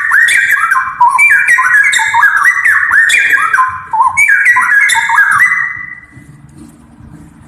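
Straw-headed bulbul singing: a fast, loud run of clear whistled notes that slide up and down, dying away about six seconds in.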